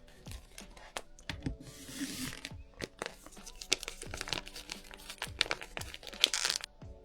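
Plastic packaging being torn open and crinkled by hand, in a run of sharp crackles and rustling that is densest from about three seconds in until shortly before the end.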